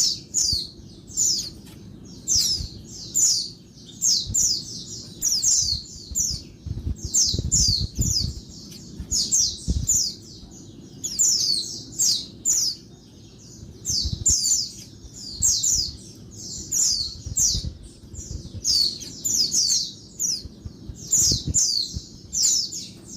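Female white-eye (pleci) calling noisily: quick runs of short, high, downward-sliding chirps, two to four at a time, repeated about every second without a break. This is the chatter used as a lure to set male white-eyes singing.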